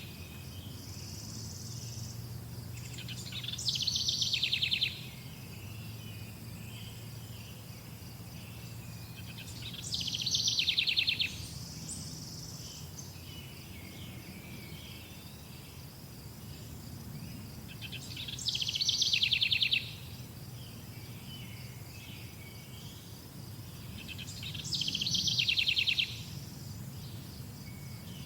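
A songbird singing the same short, loud phrase four times, about every seven seconds: each a high note dropping into a fast trill of repeated notes. Under it runs a steady high insect drone.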